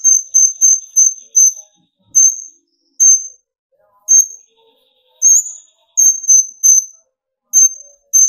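Kolibri ninja (konin) sunbird calling: short, high, thin notes repeated about a dozen times, some in quick runs of three to five and others spaced about a second apart.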